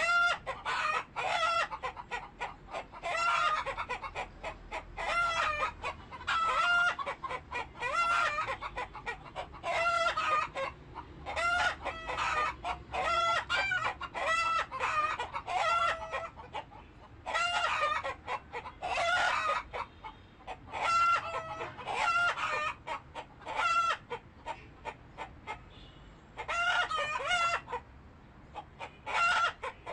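Chickens clucking and calling over and over, in clusters of bending, pitched calls with short choppy notes between them.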